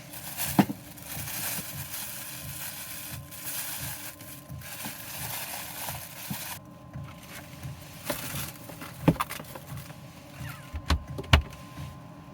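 Steady hiss of rain, with a few sharp knocks and clunks of things being handled, most of them in the second half.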